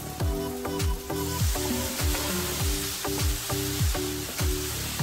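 Background music with a steady beat of deep kick drums; about a second in, crumbled tofu starts sizzling loudly in a frying pan as a wooden spatula stirs it.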